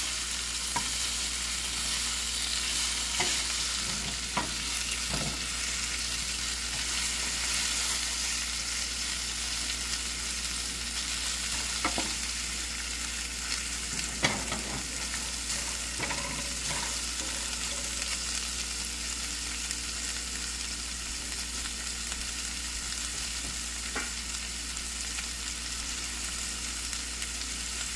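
Sliced bell peppers and onions sizzling in oil in a stainless steel skillet, a steady hiss. Now and then a wooden spoon stirs them and knocks or scrapes against the pan with a brief click.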